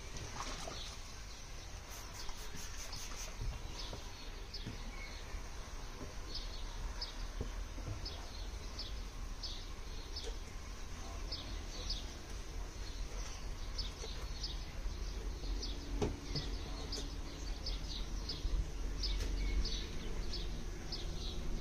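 A bird calling outdoors with short high chirps, repeated about twice a second, over a steady low outdoor rumble. A quick series of spritzes from a trigger spray bottle comes about two seconds in.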